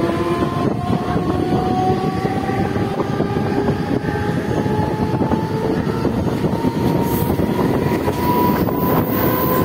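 Mumbai suburban electric local train running, heard from its open doorway: a steady rumble of wheels on the track, with the electric whine of its traction motors slowly rising in pitch.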